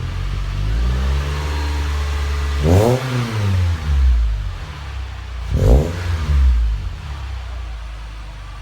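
2009 Mitsubishi Lancer GTS 2.4-litre four-cylinder through a Magnaflow axle-back exhaust, revved while parked: a slow climb to a short peak about three seconds in that drops straight back, a quick blip near six seconds, then it settles to idle. The revs are kept low, well short of the redline.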